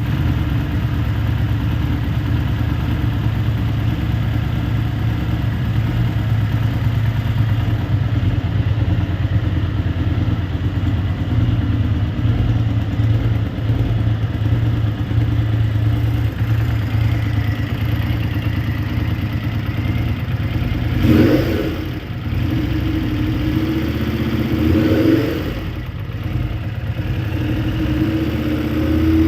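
Harley-Davidson Street Rod 750's V-twin engine idling steadily through its exhaust, then revved several times in the last third, each rev rising and dropping back to idle.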